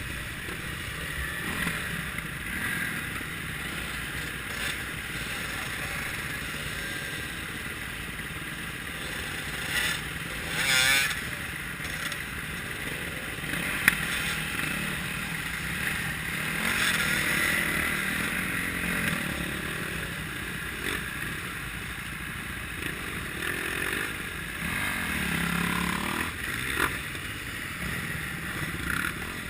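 Kawasaki KLX650R dirt bike's single-cylinder four-stroke engine running steadily while riding off-road, with wind noise. There is a short louder burst about ten seconds in, a sharp click near fourteen seconds, and the engine pitch rises and falls again near the end.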